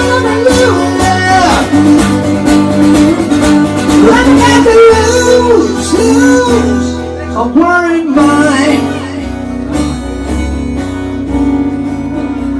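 Slow blues played by a band: a singer wails a wordless line over guitar, and about nine seconds in the voice stops and the music goes on more softly.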